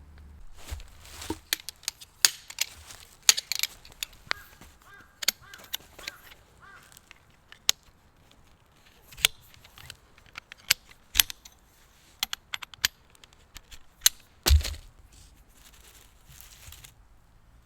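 Scattered clicks, clinks and knocks of gear being handled and set down, irregular rather than rhythmic, with one heavier thump about fourteen seconds in.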